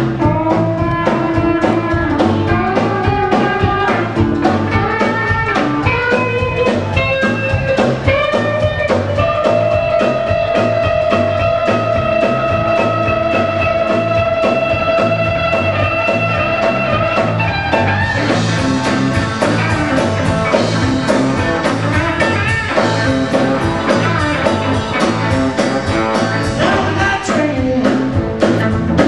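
Blues band playing: electric guitar with long held notes over bass and drums keeping a steady beat, with singing.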